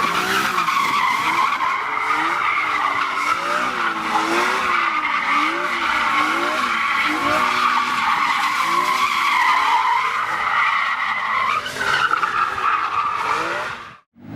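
BMW E46 drifting: tyres squealing continuously while the engine's revs rise and fall over and over as the throttle is worked. The sound cuts off abruptly near the end.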